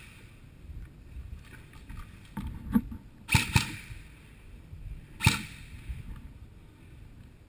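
Three sharp snaps of airsoft guns firing: two a third of a second apart a little over three seconds in, and a third about two seconds later, over a low, uneven rumble.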